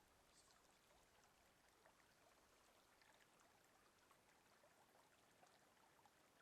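Near silence: faint, even outdoor background hiss with a few tiny ticks.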